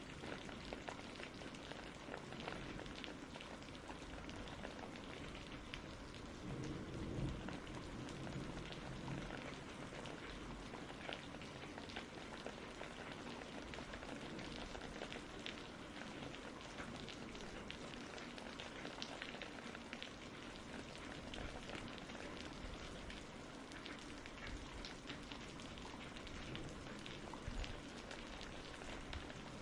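Steady rain falling, with many separate drops heard hitting a surface.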